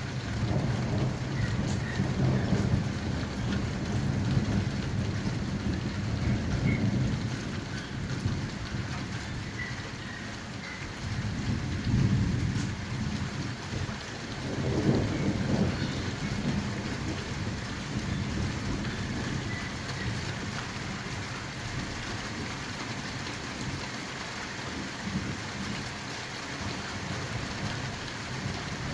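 Rain pouring steadily during a thunderstorm, with low rolls of thunder rumbling through the first several seconds and twice more around the middle.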